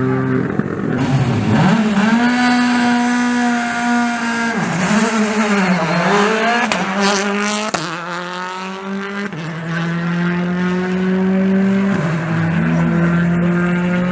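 Rally car engine held at high revs at a stage start. The pitch dips and climbs back several times in the first half, with a sharp crack about halfway, then holds high and steady, slowly rising.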